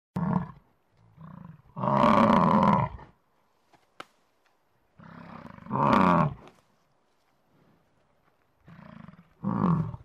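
American bison bellowing: a short call at the start, then three deep roars about four seconds apart, each led in by a softer call, the first roar the longest at about a second.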